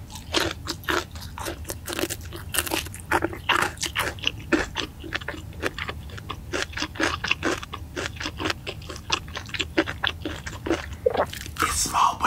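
Close-miked crunching and chewing of crispy fried chicken: a rapid, steady run of sharp crisp crunches, several a second.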